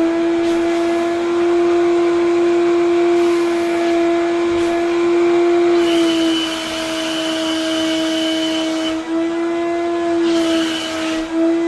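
Wet vacuum cleaner running, its motor giving a steady high whine; the pitch sags slightly a few times, and a rush of air hiss joins in for a few seconds around the middle.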